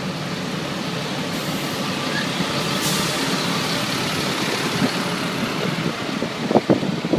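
A motor vehicle engine running steadily in street noise, with a brief hiss about three seconds in and a few sharp knocks near the end.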